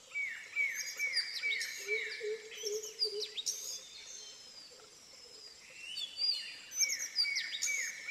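Several wild birds calling. Runs of quick, downward-slurred whistles come in two bouts, one near the start and one near the end, with higher chirps over them and a lower series of hooting notes beneath.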